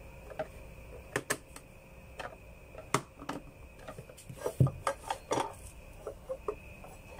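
Irregular clicks and knocks of the plastic and metal parts of an ice crusher being handled and fitted back together, with a louder knock about four and a half seconds in.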